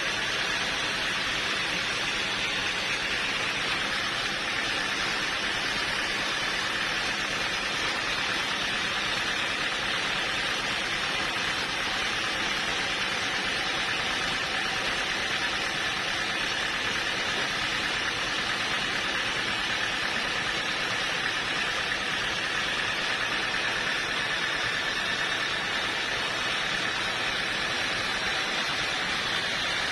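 Sawmill machinery running steadily, a constant even noise with a faint whine held through it.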